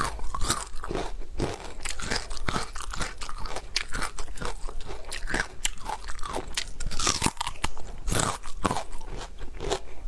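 A person biting and chewing crunchy food: a dense, irregular run of crunches and crackles, with no pauses.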